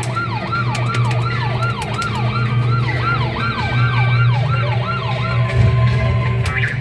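Electronic fire-engine siren sound effect from a coin-operated kiddie fire truck ride's speaker. It is a quick falling wail repeated about three times a second and stops about five seconds in, over a steady low hum.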